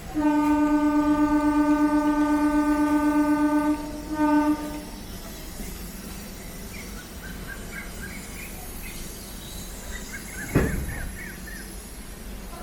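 Train horn sounding one long blast of about four seconds, then a short second blast. Afterwards come a few faint bird chirps and one sharp thump near the end.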